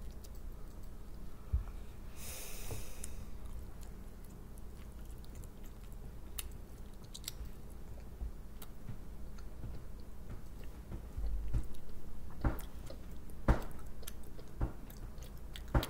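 A child biting and chewing a Hot Pocket close to the microphone, with a few sharp clicks in the last few seconds.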